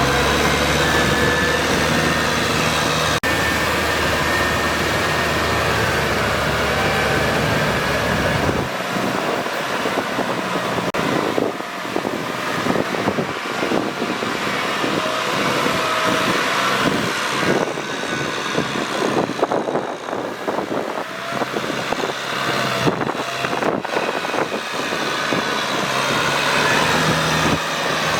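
Kubota tractor engine running with a steady low drone; about nine seconds in the drone drops away and an uneven, rougher noise with many short knocks takes over.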